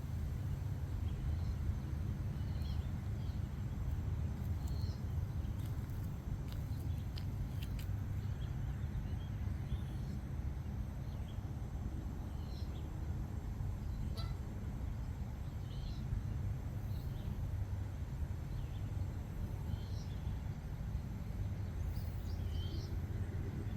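A flock of geese honking, with short calls scattered every second or two over a steady low rumble.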